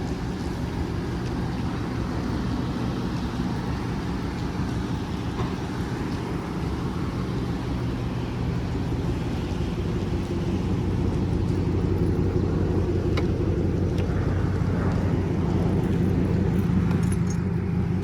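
Dodge Charger R/T's V8 engine running steadily while the car is driven, with road noise. It gets louder about halfway through.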